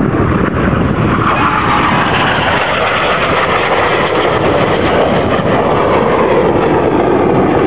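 Jet noise from BAE Hawk T1 aerobatic jets flying past, a loud steady rush whose pitch falls slowly as they go by.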